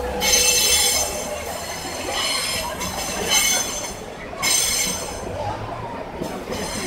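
Freight train of flat wagons carrying tank containers rolling past, its steel wheels squealing in several high-pitched bursts over a low rumble; the loudest squeals come at the start and about four and a half seconds in.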